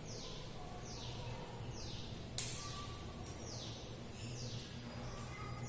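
A bird repeatedly giving a short, high, falling whistle, about once a second. A single sharp click sounds a little past two seconds in.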